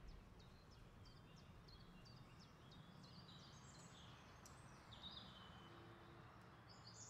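Near silence with faint birds chirping in the background: a run of short, high, falling chirps that grow thicker toward the end.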